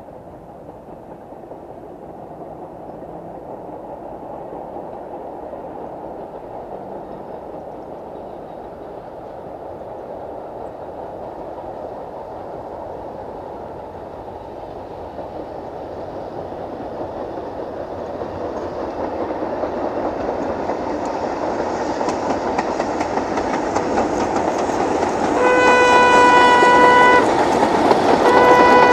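Narrow-gauge steam train approaching, its running noise growing steadily louder, then its whistle sounds two blasts near the end, the first about a second and a half long.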